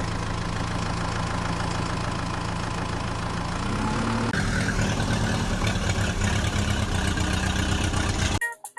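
Heavy vehicle engine running steadily at idle, rising slightly in pitch about four seconds in, then cutting off abruptly near the end.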